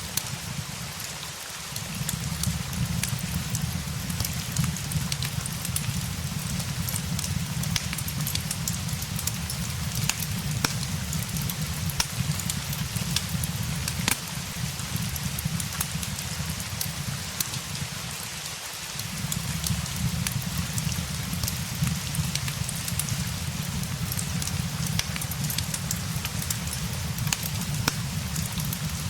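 Steady rain with a low rumble beneath it, mixed with the scattered sharp crackles and pops of a wood fire. The low rumble drops away briefly about a second and a half in and again about two-thirds of the way through.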